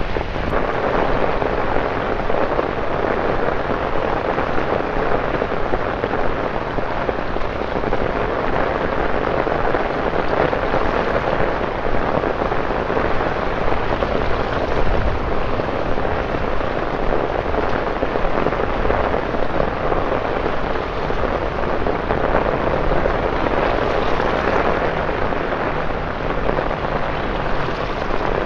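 Heavy rain falling steadily on wet street paving, an even hiss of drops splashing.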